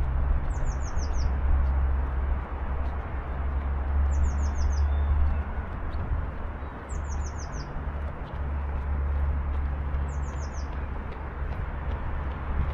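A small songbird repeats a short high phrase of four or five quick down-slurred notes four times, about every three seconds. Underneath runs a steady low rumble and hiss.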